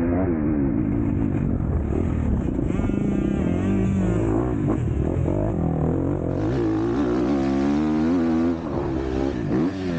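MX2 motocross bike engine under racing throttle, its pitch rising and falling again and again as the throttle is opened and closed, with a quick drop and sharp swoops in pitch near the end.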